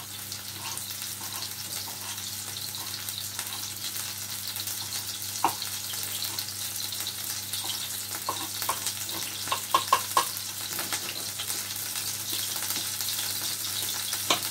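Tuna steaks sizzling steadily as they fry in oil in a pan. A knife clicks against a wooden chopping board as chillies are chopped: once about five seconds in, then in a quick run of taps a little past the middle.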